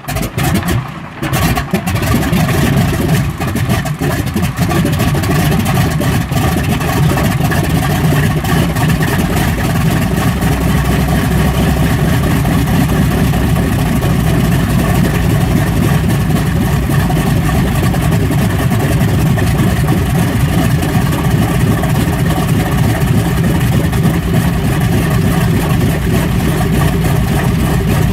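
Large Curtiss-Wright piston aircraft engine running, uneven for the first couple of seconds and then running steadily and loudly.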